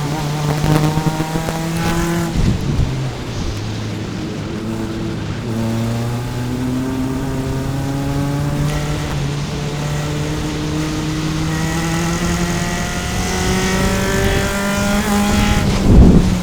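Single-seater race car engine heard onboard under power. The pitch drops sharply about two seconds in, then climbs slowly and steadily as the car accelerates. A loud thump comes near the end.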